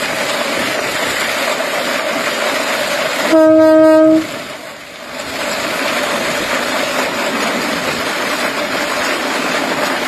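A train running with a steady rushing noise, and one loud, single-pitched horn blast just under a second long, a little over three seconds in.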